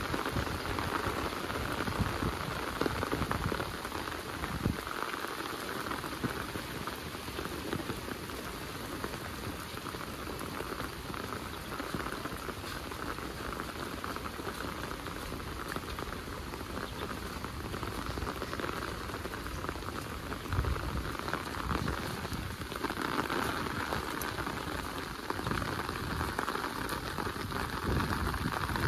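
Steady rain falling and spattering on surfaces, growing a little louder about two-thirds of the way through.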